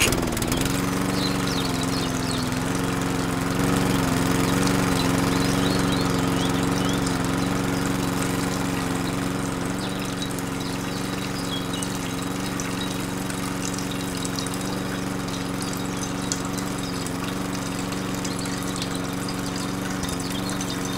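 Small electric motor of a miniature DIY machine running steadily with a constant hum. Its pitch dips briefly as it starts and then settles. It is a little louder for a few seconds near the middle.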